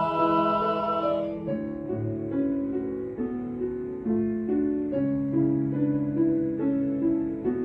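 A four-part mixed choir's held chord fades out about a second in, and a piano carries on alone, playing a passage of changing chords.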